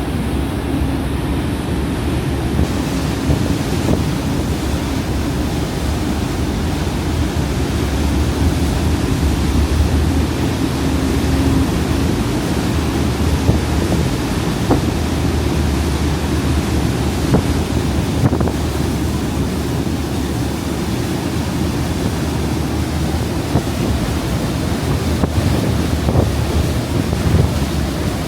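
Steady rush of wind and sea water with a low, even hum, heard aboard an Incat high-speed catamaran car ferry under way; wind buffets the microphone.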